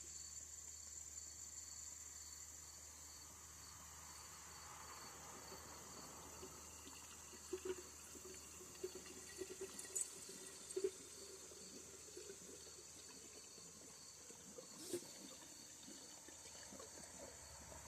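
Faint pouring of two-stroke mixed gas into a chainsaw's fuel tank, with a few light knocks from handling the saw and can about halfway through. Crickets chirp steadily in the background.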